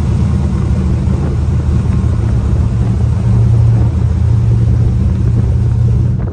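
A truck engine running steadily with a deep, low rumble.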